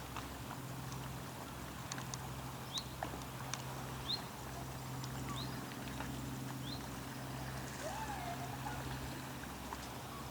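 Steady low hum of a boat's engine idling, pulsing slowly. Over it come short rising high chirps, about one every second and a half for several seconds, a few light clicks, and one wavering call near the end.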